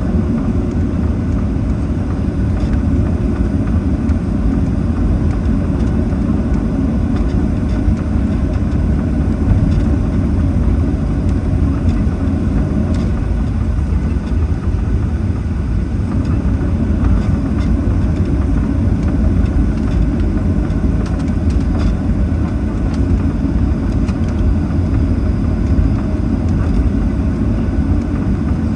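Steady low rumble inside the cabin of a Boeing 737-800 taxiing, its CFM56-7B engines running at low thrust.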